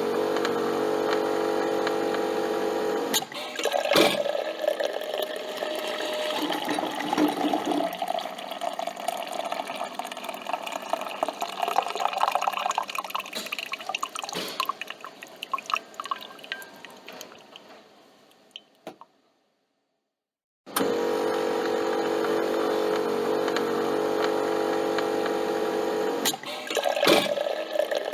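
Coffee machine brewing: a steady motor hum, a couple of clicks, then coffee pouring and dripping into the cup, tapering off to nothing. After a brief cut to silence the hum starts again and the cycle repeats.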